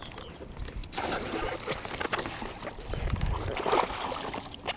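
Small water splashes and drips with scattered knocks and handling noise against a kayak, and a low rumble of handling about three seconds in.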